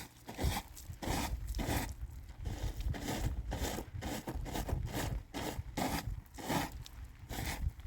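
Repeated scraping strokes, about one to two a second, like a tool or shovel scraping wet snow.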